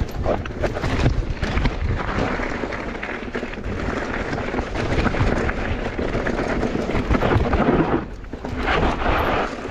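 Mountain bike riding down a rough bike-park trail: a steady rumble of tyres on dirt and gravel, mixed with rattling and knocks from the bike, easing briefly about eight seconds in.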